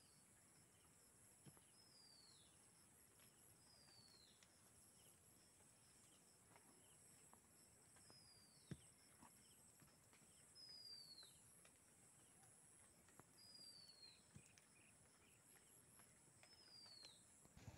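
Near silence with a faint bird call repeated every few seconds: a short whistle falling in pitch each time, over a steady faint high hiss.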